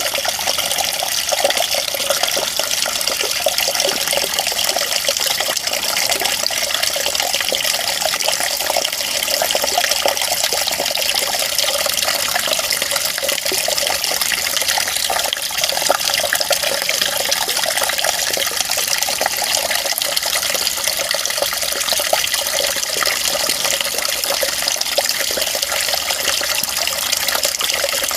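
Running water flowing steadily: an even, continuous splashing noise without breaks, bright and thin with almost no low rumble.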